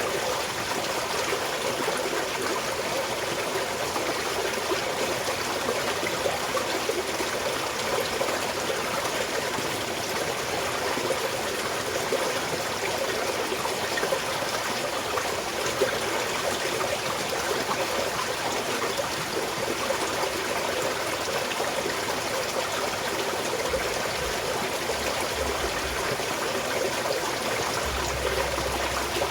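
Small mountain stream flowing and trickling over rocks, a steady babbling rush of water without pauses.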